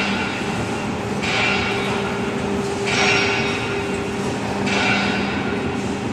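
Hydraulic profile bending machine running: a steady hum from the hydraulic power unit, with a higher hissing rush that swells and fades about every two seconds.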